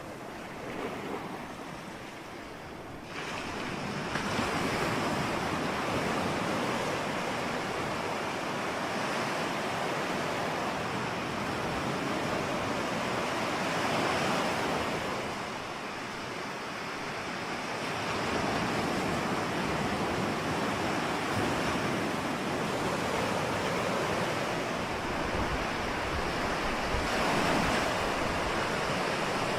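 Ocean surf: waves breaking and washing in as a continuous rushing noise that swells and eases, with a wave surging in suddenly about three seconds in.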